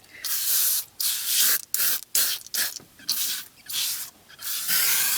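Foam upholstery cleaner sprayed onto a car seat in about eight short hissing bursts, the last one longer.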